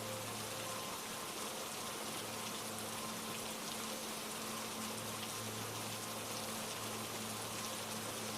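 Steady rain falling, an even hiss of many drops without a break, with soft held low tones of ambient meditation music underneath.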